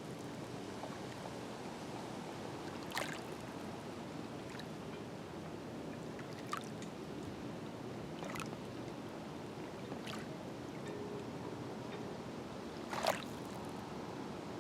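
Small lake waves lapping at the shore: a steady wash of water broken by about five brief splashes and plops, the loudest near the end.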